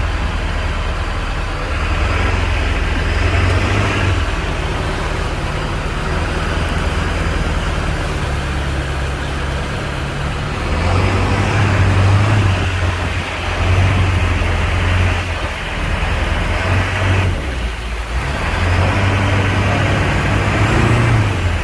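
Monster truck's engine running under load as it drives over rough ground, heard from aboard the truck; the engine note swells and eases repeatedly, with a short lull about three-quarters through.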